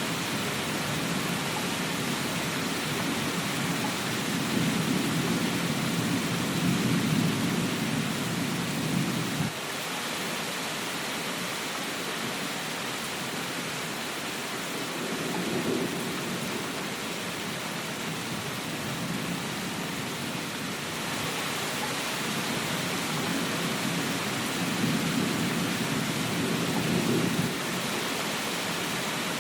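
Steady rain falling, with low rumbles of distant thunder swelling three times; the first and last rumbles break off suddenly.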